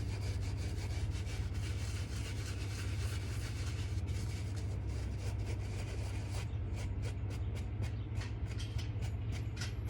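A brush scrubbing back and forth over suede, working mink oil into the nap, over a steady low hum. About two thirds of the way through, the scrubbing breaks into separate quick strokes, about three a second.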